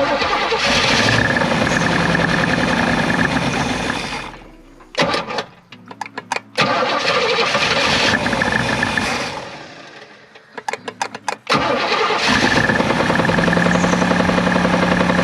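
A third-gen Camaro's engine being cranked over and catching three times: each time it fires and runs for a few seconds, then stumbles and dies, until the third start keeps it running near the end.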